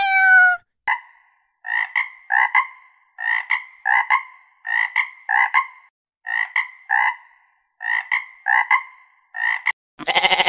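The last of a cat's falling meow, then a frog croaking over and over in short, clipped notes, mostly in pairs, about two a second with brief gaps between groups. A sheep's bleat starts right at the end.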